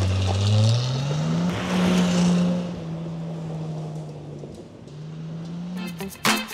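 Datsun 280Z's straight-six engine pulling under load. Its pitch climbs about a second in, holds, dips briefly near the middle and climbs again, with a rushing hiss over it in the first couple of seconds. Strummed guitar music comes in near the end.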